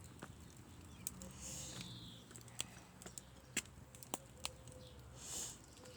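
Campfire of sticks and pinecones crackling, with scattered sharp pops and a couple of brief hisses.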